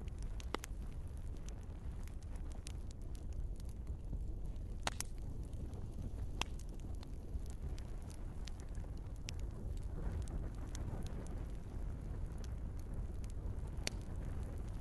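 Wood fire crackling in a fireplace: a steady low rumble of flames with scattered sharp pops and snaps from the burning logs, a few louder ones standing out.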